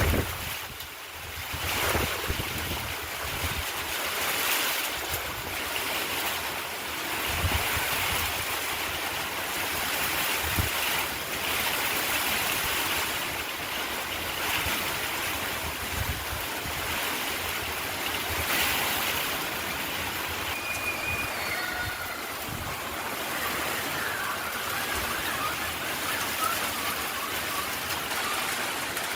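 Rain falling steadily in strong wind, a continuous hiss, with gusts rumbling on the microphone now and then.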